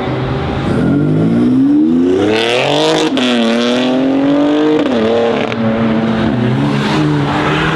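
BMW X3M Competition's twin-turbo straight-six with a loud custom exhaust accelerating hard. The engine note climbs, drops sharply about three seconds in as it shifts up, climbs again, then eases off about five seconds in and settles to a steady lower note.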